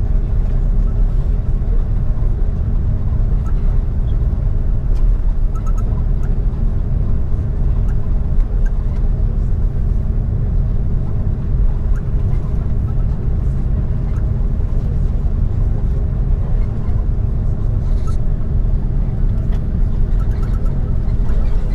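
Inside the cabin of an Airbus A330 taxiing: a steady low rumble from the jet engines running and the aircraft rolling, with a few steady hums over it.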